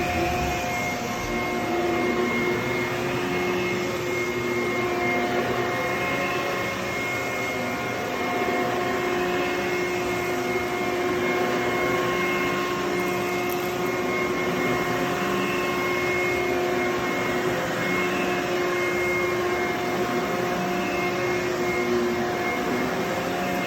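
HYLA water-filtration vacuum cleaner running steadily over carpet: a constant motor whine with several held tones, its pitch bending slightly every few seconds as the load changes.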